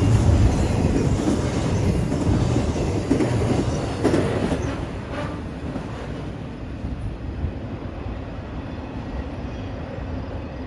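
Intermodal freight train cars rolling past at speed after pulling away from a stop. A heavy rumble of wheels on rail is broken by a few clanks a few seconds in, then fades steadily as the train draws away.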